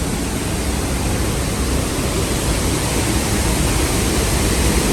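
Waterfall rushing: a steady roar of falling water, strongest at the low end, with no breaks.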